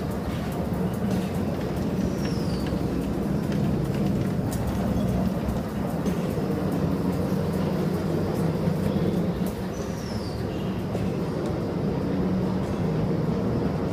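Vertical turning lathe (VTL) running with a steady, even machine hum, and two brief faint high squeaks that fall in pitch.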